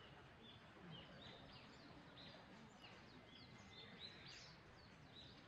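Faint birds chirping: many short calls and whistles, scattered throughout, over a low steady outdoor hiss.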